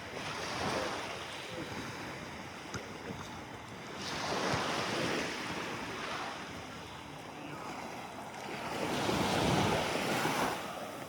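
Small sea waves washing in on a shallow beach, three surges of rushing water about every four to five seconds, with some wind on the microphone.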